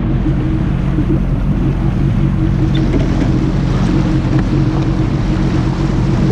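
Jet ski engine running steadily at speed, with rushing water and wind noise.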